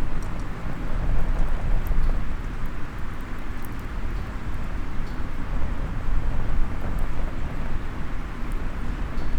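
Small wood fire in a mini fire stand crackling with faint, scattered snaps, over a steady low outdoor rumble that is the loudest part.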